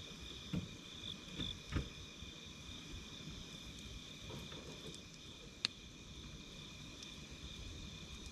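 Crickets chirping steadily at night beside a wood campfire. The fire gives a few soft low knocks in the first two seconds and one sharp crackling pop about five and a half seconds in.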